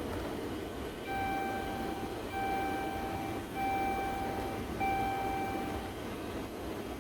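Train horn sounding four long blasts of about a second each, one steady note, over the steady rumble of a train.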